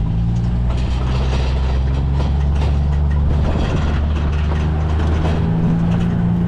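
ATV engine running steadily while being ridden, with rattling from the machine over rough ground. The engine note shifts a little about five seconds in.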